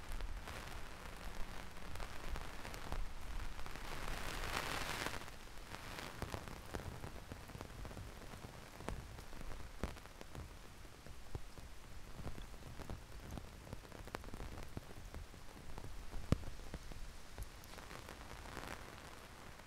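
Heavy rain falling, with many scattered drops tapping close by. A brief louder hiss swells about four to five seconds in, and a fainter one near the end.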